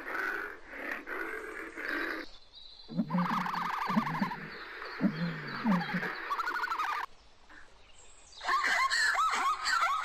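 Three different animal calls in turn, with short gaps between them. First a lioness's rough, breathy growl, then an emu's low pulsing grunts, then a zebra's string of yelping, barking calls.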